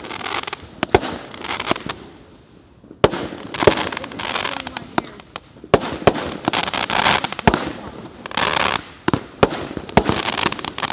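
Fireworks and firecrackers going off in quick succession: many sharp bangs with crackling hiss between them, a short lull about two seconds in, then a dense run of bangs and crackle.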